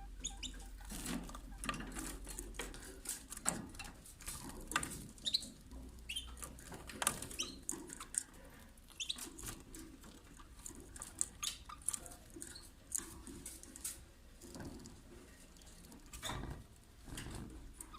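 Canaries bathing in a water dish: irregular small splashes and patter of water with quick wing flutters, scattered through the whole stretch.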